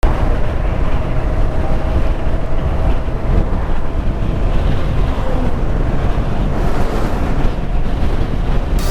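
Loud, steady wind buffeting on the microphone, as from riding a motorcycle at speed, starting abruptly.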